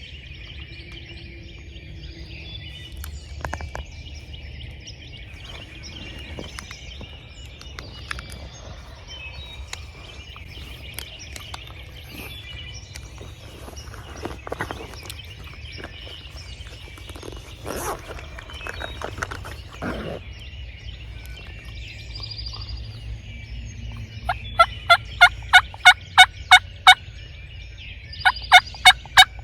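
Wild turkeys gobbling in the woods over a chorus of songbirds. Near the end come two loud series of evenly spaced hen-turkey yelps, about four notes a second.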